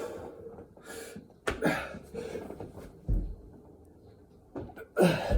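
A person breathing hard and gasping mid-burpee, with sharp, loud exhalations about a second and a half in and again near the end. A low thud comes about three seconds in as the body lands on the floor.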